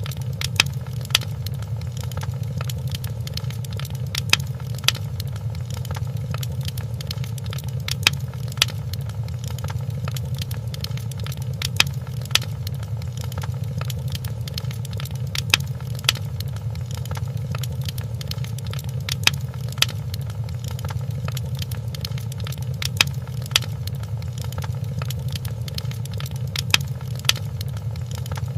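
Wood fire crackling in a fireplace: a steady low rumble of flames with sharp pops that come in pairs about every four seconds, in an evenly repeating pattern.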